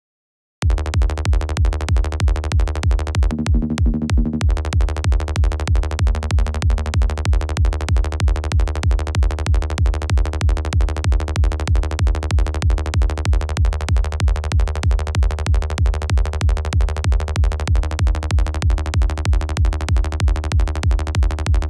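Synthesized electronic kick drum and synth bass looping in a steady, evenly repeating beat, starting about half a second in. The bass tone changes a few times along the way.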